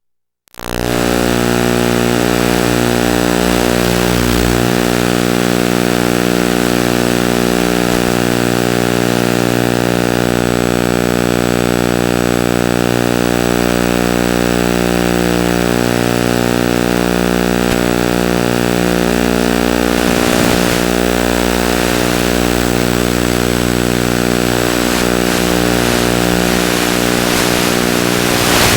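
Steady buzzing drone with many even overtones, holding one unchanging pitch throughout.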